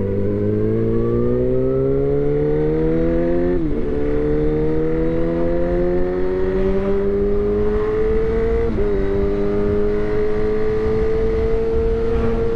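Suzuki GSX-R1000 inline-four engine through a replica SC-Project exhaust, pulling steadily with its pitch climbing slowly. It shifts up twice, about a third of the way in and again about two-thirds in.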